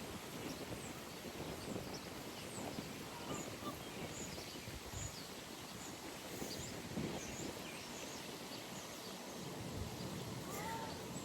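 Early-morning pond ambience: small birds chirping over a steady low background noise. Near the end a goose starts honking.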